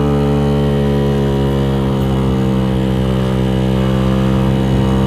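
Scooter's GY6 single-cylinder four-stroke engine, bored out to 88cc, running hard under way, a steady drone holding a nearly level pitch.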